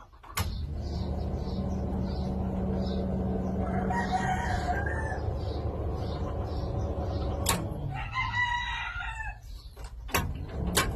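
A rooster crowing, about four seconds in and again about eight seconds in, over a steady low rumble, with a few sharp clicks near the end.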